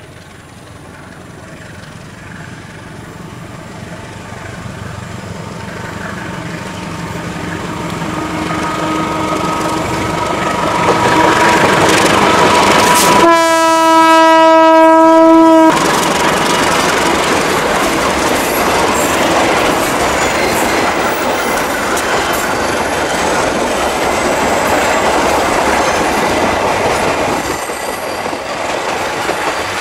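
Passenger train hauled by a CC 201 diesel-electric locomotive approaching and passing, its engine and wheel noise growing steadily louder over the first twelve seconds. About thirteen seconds in, the locomotive's horn sounds one long, steady blast of a little over two seconds. The coaches then roll past, easing off slightly near the end.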